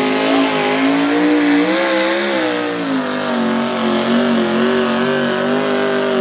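A competition pulling vehicle's engine running hard at high revs under load. Its pitch rises, wavers and sags about two to three seconds in, then holds fairly steady.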